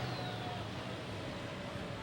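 A distant diesel super stock pulling tractor's engine running at low revs, with a faint tone that falls slowly, over a steady outdoor hiss.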